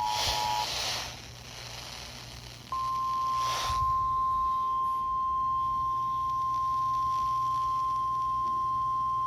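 Emergency Alert System broadcast tones: the two-tone attention signal cuts off under a second in, followed by a couple of seconds of radio hiss. Then a steady single-tone weather-radio warning alarm begins and holds, signalling the start of an urgent severe-weather alert.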